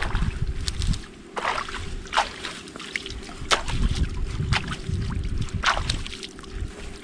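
Gusty wind buffeting the microphone, with scattered short sharp ticks and taps.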